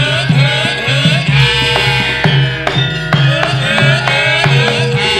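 Javanese band music of the kind played in a wayang kulit limbukan interlude. Kendang hand-drum strokes with a bending low pitch keep a quick beat, about two to three strokes a second, under a gliding melody.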